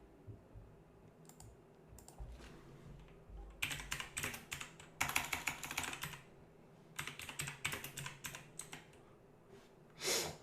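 Computer keyboard typing in two quick runs of keystrokes, the first a few seconds in and the second in the latter half.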